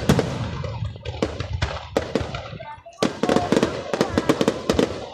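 Fireworks display: aerial shells bursting with sharp bangs over a low rumble. A dense run of rapid cracks comes from about three seconds in.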